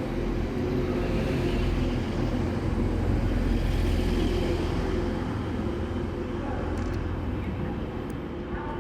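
Train moving through a station: a steady low hum with a few held tones, easing off slightly in the second half.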